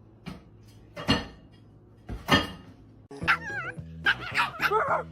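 A dog barking twice, then whining and yipping in wavering high calls over background music.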